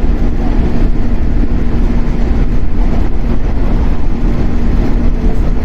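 Onboard running sound of a JR-built 115-series electric multiple unit, recorded inside the motor car KuMoHa 115-1013: a loud, steady rumble of wheels on rail with a steady hum from the DC traction motor drive, as the train runs at an even speed.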